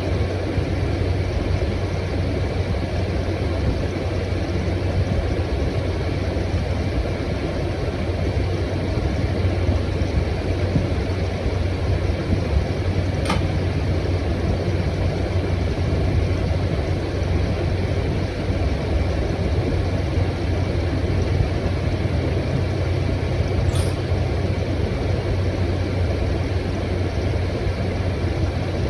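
Small 6,000 BTU window air conditioner running, its compressor giving a steady low hum under the rush of the fan. Two faint ticks sound, one about halfway through and one near the end.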